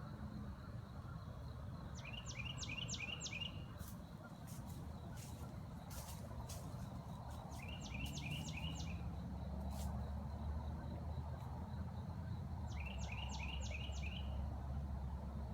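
A songbird singing three short phrases about five seconds apart, each a quick run of five or six down-slurred whistled notes. A low steady rumble runs underneath, stronger in the second half.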